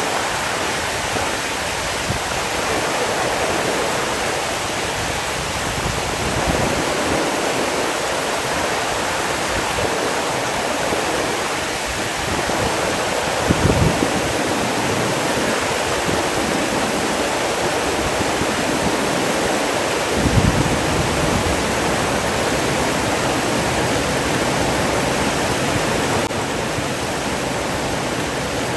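Steady rushing of running water, like a waterfall or fast stream, with two brief low thumps partway through.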